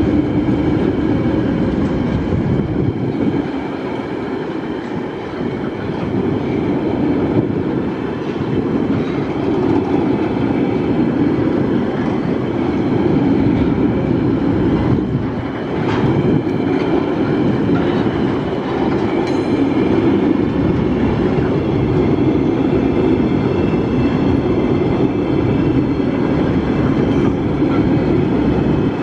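Empty TasRail freight wagons rolling steadily past close by: a continuous rumble of steel wheels on the track, with a faint high ringing over it and an occasional knock.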